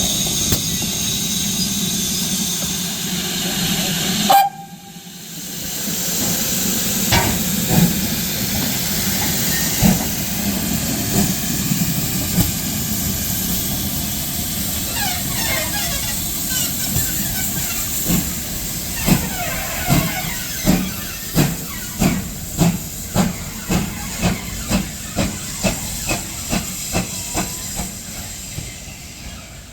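Steam locomotive hissing steam. After a sharp break about four seconds in, its exhaust beats start up and quicken into a regular rhythm of about two beats a second as it gets under way.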